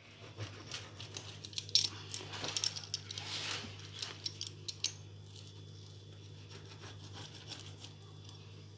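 Light clicks and a short scrape of a utensil against a plate while pizza is handled, dying away after about five seconds, over a steady low hum.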